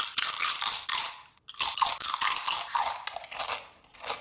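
Someone biting into and chewing a crunchy chocolate sandwich cookie, with steady crisp crunching in two runs and a short break about a second and a half in.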